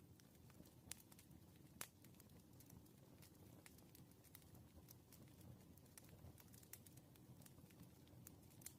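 Faint crackling of a wood fire: irregular sharp pops and snaps over a low, soft rumble of flames, with louder pops about one and two seconds in.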